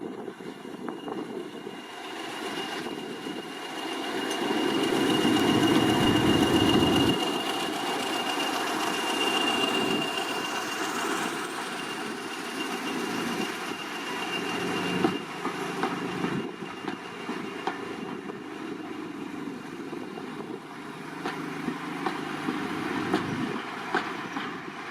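Train running along the track, its noise swelling to a peak a few seconds in and then easing off. A steady high-pitched squeal runs through the first half, and sharp clicks come later.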